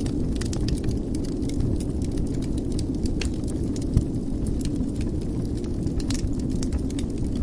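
Wood fire burning in a fireplace: a steady low rumble of flames with scattered small crackles and a louder pop about four seconds in.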